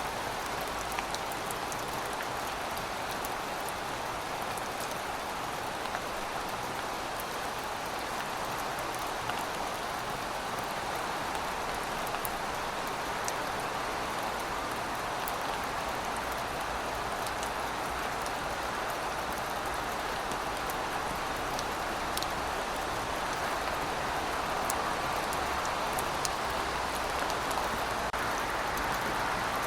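Steady rainfall: an even hiss of falling rain with scattered fine drop ticks.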